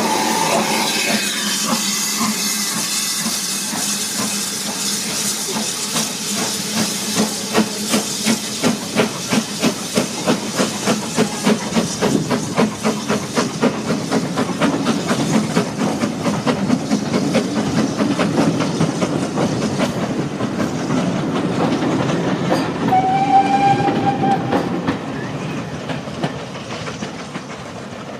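BR Standard Class 9F two-cylinder steam locomotive starting away: steam hissing at first, then the exhaust chuffing at about two beats a second, quickening and running together as it gathers speed. A brief steady high tone sounds near the end, and the sound eases off as the engine draws away.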